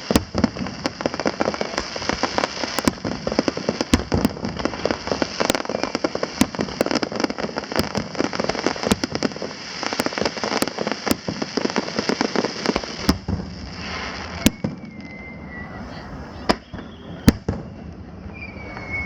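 Aerial fireworks crackling and banging in a dense, rapid barrage that thins out after about thirteen seconds into scattered single bangs.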